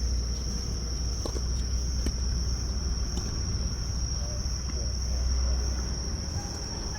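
Steady high-pitched chirring of crickets, over a low rumble. A few sharp knocks come about one, two and three seconds in, fitting tennis balls being struck.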